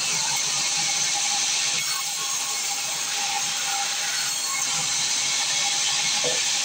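Sawmill saw cutting through a log: a steady, hissing cutting noise with a faint steady whine underneath.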